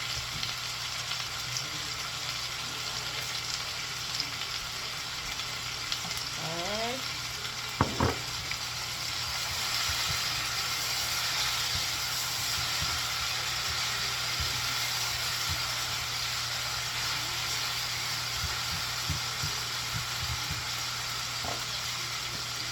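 Chopped scallion, onion, sweet peppers and garlic sizzling in hot oil in a pot. The sizzle grows louder about ten seconds in, and there is a sharp knock of a utensil against the pot about eight seconds in.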